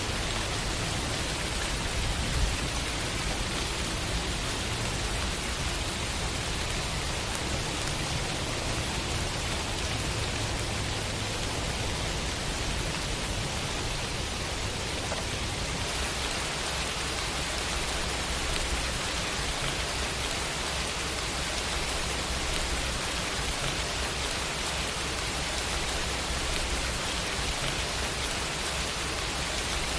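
Steady rain falling, a dense even hiss with no single drops standing out; its tone shifts slightly about halfway through.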